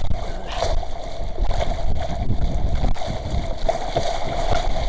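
Small sailing yacht under way in a strong wind of about 10 m/s: wind buffets the microphone in a steady rumble, and water rushes along the hull.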